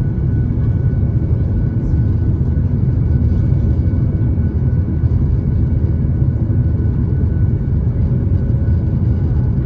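Steady, loud, low rumble of a Boeing 737-800's CFM56-7B jet engines and airflow during the climb after takeoff, with faint steady whining tones above it and no change in level.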